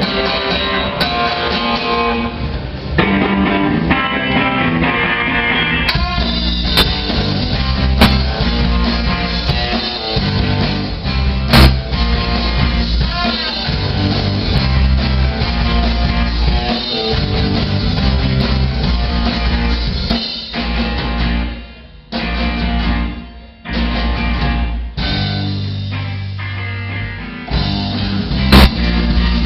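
Live rock band playing an instrumental passage with guitar and drum kit. The music briefly cuts out twice about three-quarters of the way through, in band stops, then comes back in.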